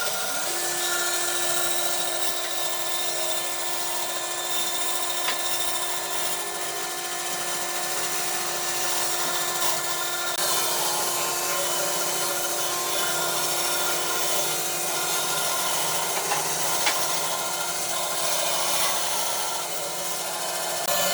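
An electric power tool's motor spins up just after the start and then runs steadily, with a continuous hiss of the tool working wood.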